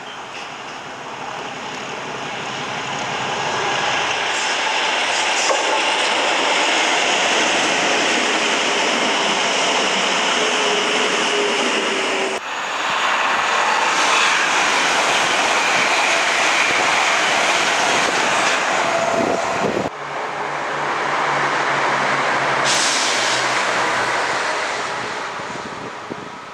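A train passing close by at speed, its wheels on the rails making a loud, steady rushing noise. It builds over the first few seconds and fades near the end, with abrupt changes in the sound about 12 and 20 seconds in.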